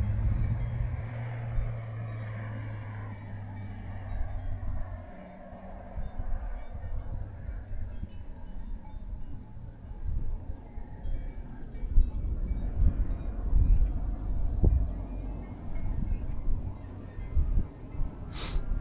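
A cricket trilling steadily on one high note, with wind gusting on the microphone. A vehicle's engine fades away over the first few seconds.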